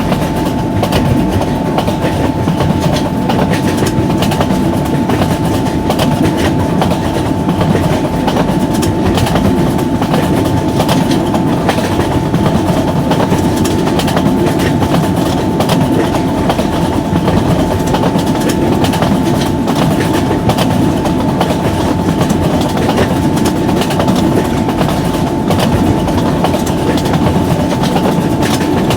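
Long train passing at high speed: a steady, loud rumble of wheels with continual fast clicking over the rail joints and a steady whine above it.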